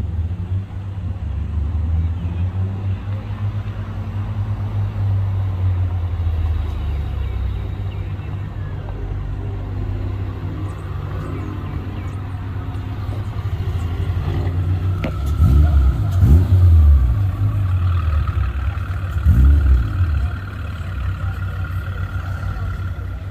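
A car engine running with a heavy low rumble, revving up and back down twice in the second half.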